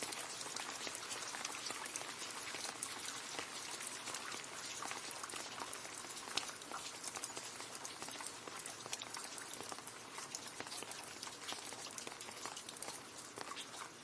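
Rain falling into a puddle: a steady, dense patter of many small drops splashing on water.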